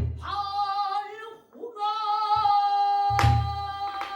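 Female pansori singer holding long, wavering sung notes, accompanied by the buk barrel drum: a hard drum stroke about three seconds in and a couple of lighter taps.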